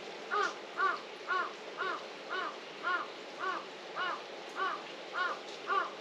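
A bird calling eleven times in a quick, even series, about two calls a second, over the steady hiss of falling rain.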